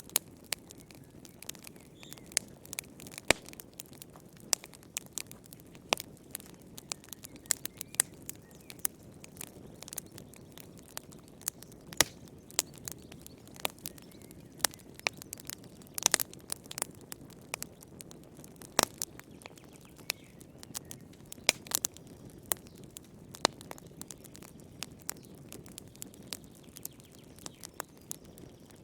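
Wood fire crackling: irregular sharp pops and snaps, several a second, over a soft low rush of burning.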